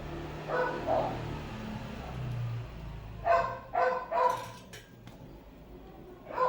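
A dog barking: two short barks near the start, a quick run of three about halfway through, and one more at the end, over a steady low hum.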